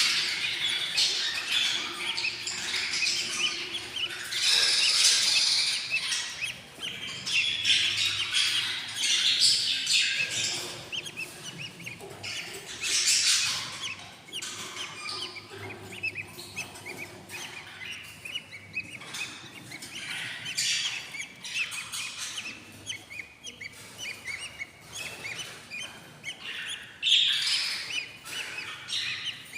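Eight-day-old budgerigar chicks in a nest box chirping in repeated high-pitched bursts: hungry begging calls.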